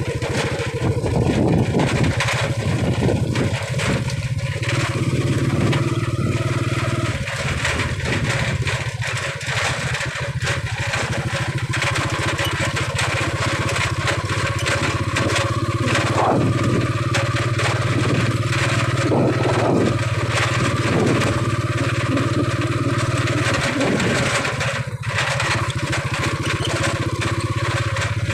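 Small motorcycle engine running steadily, a low even hum with a few brief changes in pitch.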